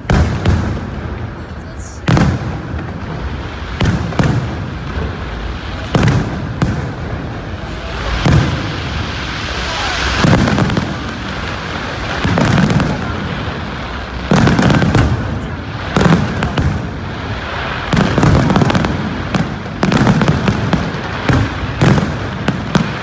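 Aerial fireworks display: shells bursting with sharp, loud bangs roughly every two seconds, with a hissing crackle between some of the bursts.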